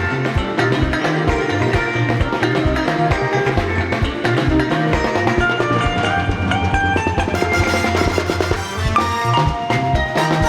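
Live praise band playing an upbeat instrumental passage: a steady drum kit beat, bass and guitar, with high keyboard or guitar runs near the end.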